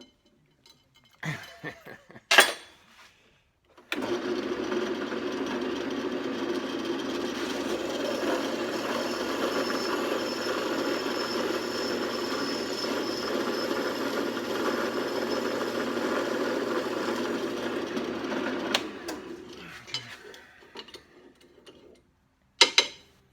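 Electric drill running steadily for about fifteen seconds, drilling out worn threads in aluminium to take a heli-coil insert, then winding down; a few sharp knocks before and near the end.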